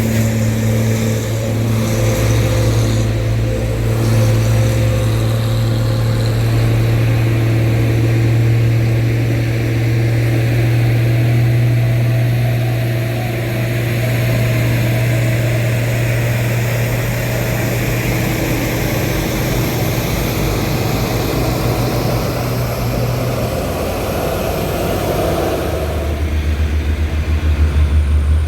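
Heavy truck's diesel engine running steadily under load, a constant drone. Near the end its note drops lower and turns pulsing.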